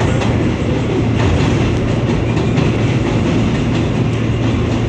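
Interior of an R160 subway car running at speed: steady rolling rumble with a low hum, and the wheels clicking over rail joints now and then.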